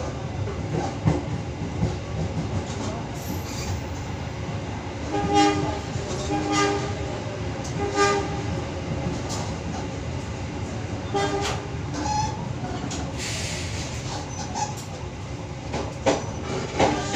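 Passenger train running at speed, heard from inside a carriage: a steady rumble with wheel clicks on the rails. About five seconds in comes a series of short horn blasts, with a couple more around eleven seconds.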